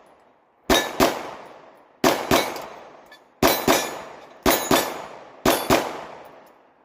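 Handgun fired in five quick pairs, the two shots in each pair about a quarter to a third of a second apart. Each shot is followed by the ringing clang of a steel target being hit.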